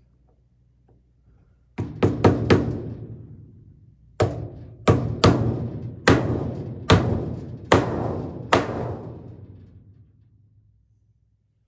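A hammer or mallet striking hard, each blow ringing out: four quick blows, then after a short pause seven more at a steady pace just under a second apart.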